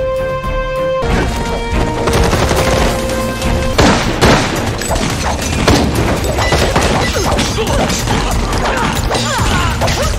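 Action-scene soundtrack: music with held tones, then from about four seconds in a dense run of sharp impacts and crashes, fight hits and rapid gunfire-like bursts over the score.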